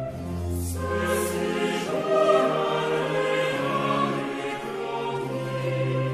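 Classical vocal music: a choir sings long held notes in French over an orchestral accompaniment.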